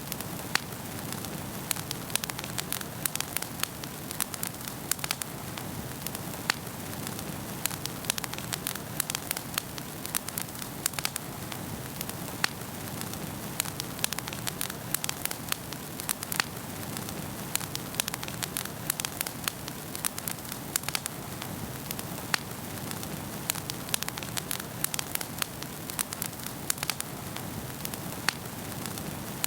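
Wood fire burning in a fireplace, crackling and popping: a steady low rustle of flames with many short sharp snaps at irregular intervals.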